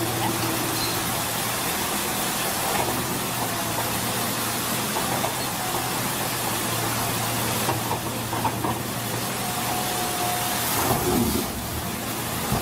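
An engine running steadily, with a constant low hum under a wash of mechanical noise and a brief change about eleven seconds in.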